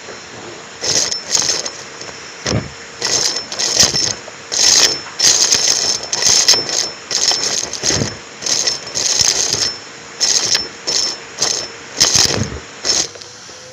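Numatic James vacuum cleaner running with a microphone on it, with repeated irregular bursts of crunchy rattling as debris is sucked up through the tool and hose.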